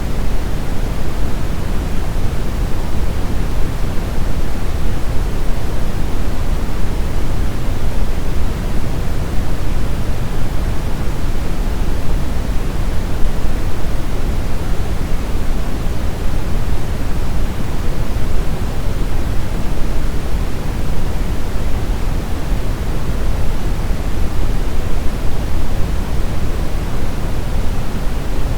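Brown noise: a steady, loud hiss with no events, deep and rumbly, its energy strongest at the bottom and falling away toward the top.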